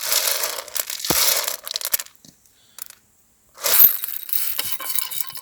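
Dried peas and white beans poured out, a dense rattle of many small hard grains falling. It comes in two pours about a second and a half apart.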